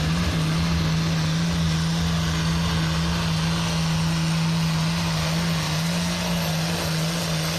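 Altered stock pulling tractor's diesel engine running hard with a loud, steady drone that holds one even pitch, easing off slightly near the end.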